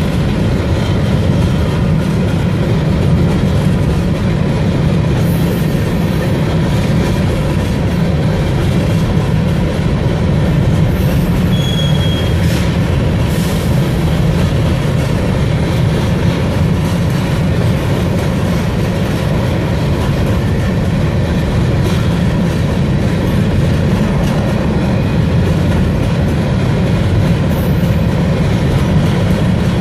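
Freight train of covered hopper cars rolling past, its steel wheels running on the rail in a steady rumble. A brief high-pitched wheel squeal comes about twelve seconds in.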